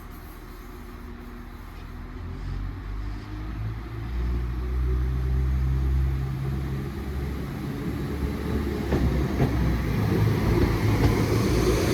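Class 195 diesel multiple unit pulling away, its underfloor diesel engines running as it gets under way. The engine sound builds from about four seconds in and grows louder towards the end as the train moves off.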